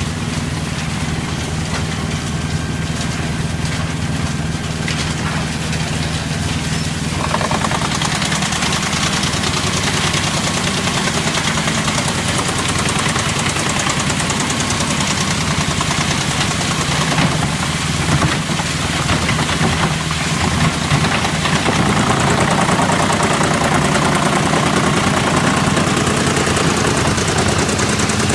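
A heavy machine's engine running steadily. About seven seconds in, a harsher, louder noise joins it and carries on under load.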